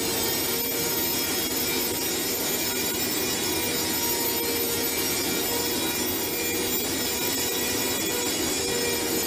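Steady assembly-plant machinery noise: an even mechanical hiss with several constant whining tones, unchanging throughout.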